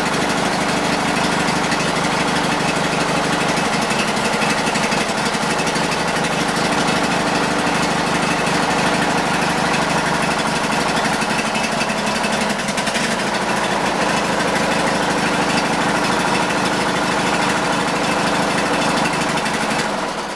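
Briggs & Stratton engine of a 1999 Yard King garden tractor running steadily, still warming up after a cold start in freezing weather. It dies away right at the end as it is shut off.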